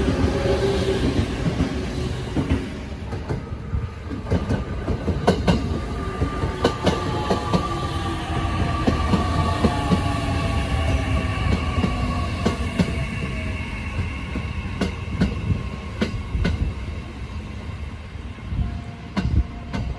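JR East E501 series electric commuter train running along the platform, its wheels clicking over rail joints with a steady rumble. A motor whine sounds through the middle and falls in pitch.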